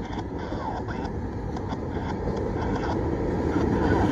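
Freight train cars rolling past on the rails: a steady rumble of wheels, slowly growing louder, with a few faint clicks.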